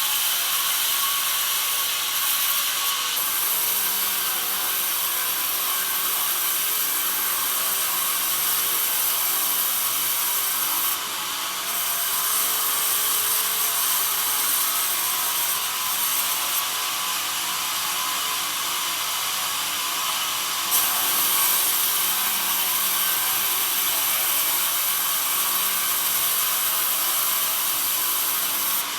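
Band sawmill cutting pine: a steady, loud hiss of the blade running through the wood, shifting slightly in tone a few times.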